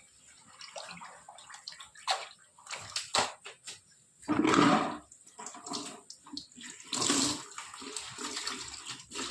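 Water splashing and pouring in irregular bursts, with a few knocks; the biggest splashes come about halfway through and again near the end.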